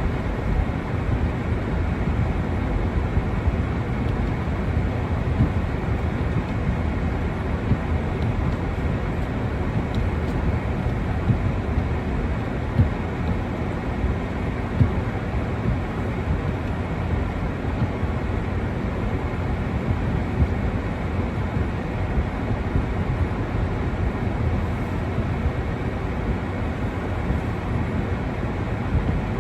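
Steady low rumbling noise with a few brief soft knocks.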